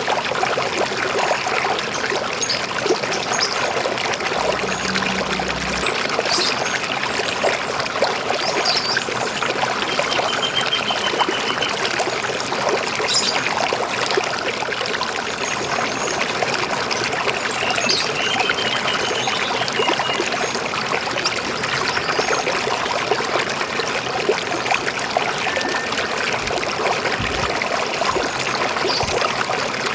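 River water flowing steadily, with scattered short bird chirps and a couple of brief trilled calls.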